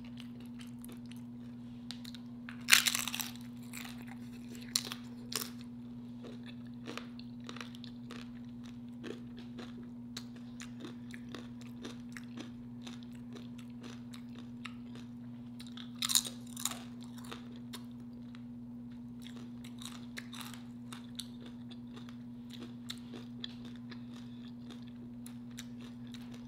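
Close-miked eating: crunching tortilla nacho chips and chewing a chili cheese dog, with the loudest crunches about three seconds in and again around sixteen seconds in. A steady low hum runs underneath.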